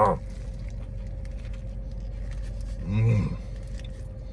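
A man biting into and chewing a large burger, with faint wet chewing clicks over a steady low hum inside a car. About three seconds in there is a brief hummed "mm" with his mouth full.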